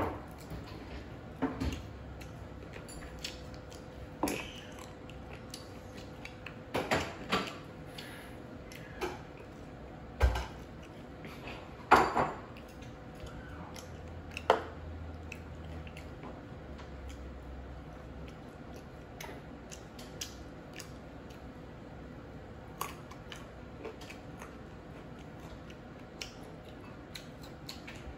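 Eating roasted chicken wings by hand: chewing and biting in irregular short clicks, with occasional light knocks of dishes and a sauce cup on the table, the loudest about seven and twelve seconds in. A faint steady hum underneath.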